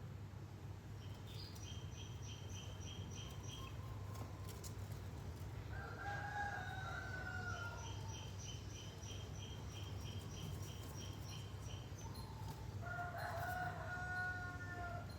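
Two drawn-out animal calls, each about a second and a half long, about six and thirteen seconds in. Between them come runs of short, high chirps repeating about four times a second, over a steady low hum.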